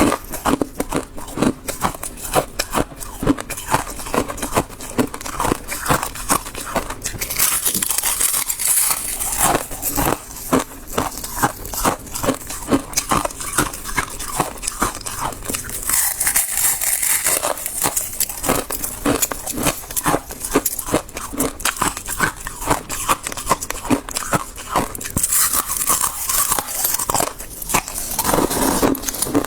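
Freezer frost being bitten and chewed close to the microphone: dense, rapid crunching that goes on without a break. Every few seconds a stretch of hissier, finer crackling comes in.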